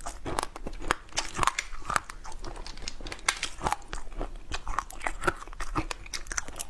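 Close-miked crunching and chewing of a hard, brittle food: many irregular crisp cracks from bites and chews.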